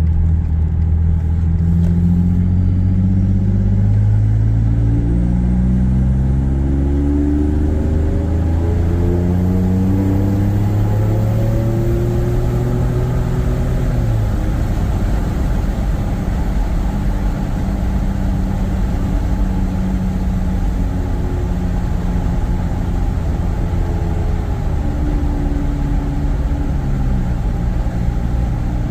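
2018 Ford F-150's 3.5 EcoBoost twin-turbo V6 through an AWE 0FG exhaust with a 3-inch Borla resonator, heard from inside the cab while driving. The engine note climbs under acceleration for about fourteen seconds, then falls away and holds steady at cruise, with another drop in pitch near the end.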